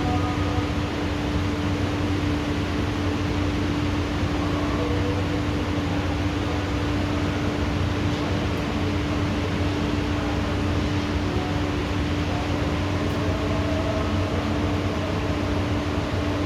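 Steady hiss of heavy rain, with a constant low hum running under it.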